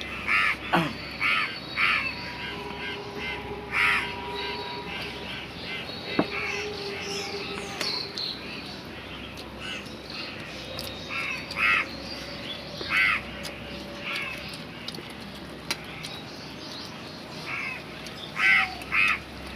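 A bird calling repeatedly in short calls that come in clusters: several near the start, a few around the middle and more near the end.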